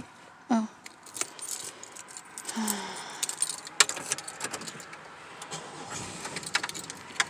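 A bunch of keys jangling and clinking, a run of irregular small metallic clicks, as someone searches through their keys.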